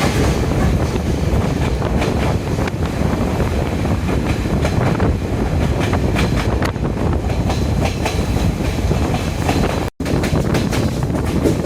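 Diesel multiple-unit express train running along the line: a steady rumble with wheels clicking and knocking over the rail joints. The sound cuts out for an instant about ten seconds in.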